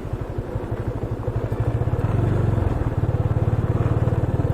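Motorcycle engine running under way, a fast steady pulsing that gets a little louder from about two seconds in.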